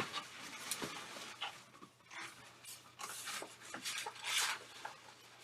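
Faint rubbing and squeaking of inflated latex twisting balloons (260s) as hands twist their ends together, with a few louder scrapes around three and four and a half seconds in.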